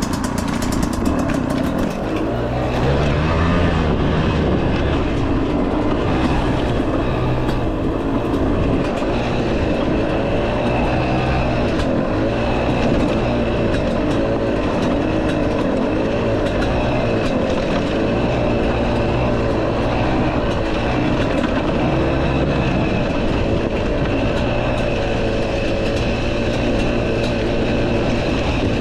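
Husqvarna dirt bike engine running steadily while riding, its pitch rising a little a few seconds in and then holding even.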